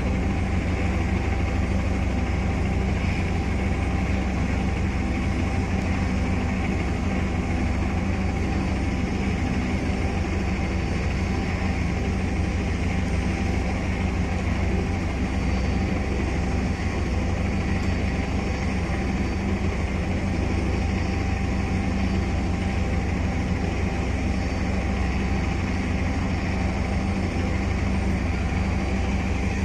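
Helicopter running steadily while waiting to depart: a continuous low drone with a steady whine layered over it.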